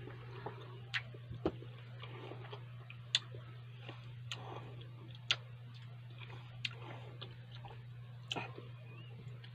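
A person chewing food with the mouth close to the microphone: irregular wet clicks and lip smacks, roughly one a second, over a steady low hum.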